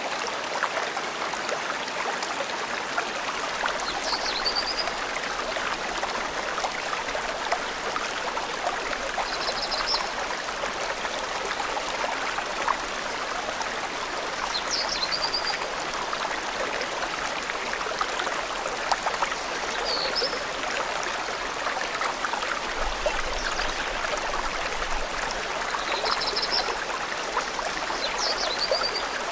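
Forest stream running steadily, with a small bird giving short high calls every few seconds.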